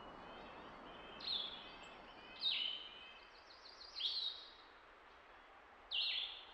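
Songbirds singing: short high phrases about every second and a half, each sliding down in pitch, over a faint steady hiss.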